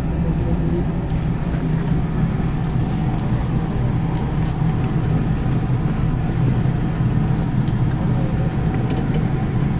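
Steady low hum inside a stopped electric train carriage, its onboard equipment running while it stands waiting, with a few faint clicks near the end.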